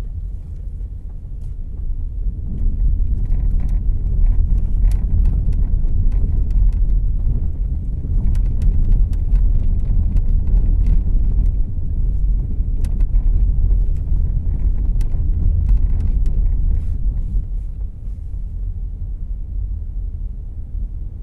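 Low road-and-engine rumble inside the cabin of a 2014 Volkswagen Jetta Clásico on the move. It grows louder about two and a half seconds in and eases back near the end, with scattered sharp clicks and rattles.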